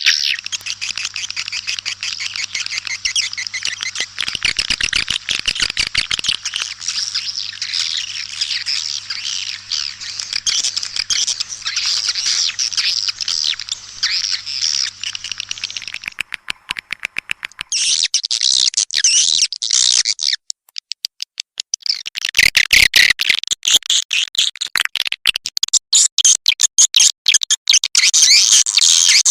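Recorded swiftlet calls: a dense, fast chatter of high chirps and clicks, the lure call played to draw swiftlets into a nest house. A low steady hum lies under the first half, and the calling breaks off briefly about two-thirds of the way in before starting again.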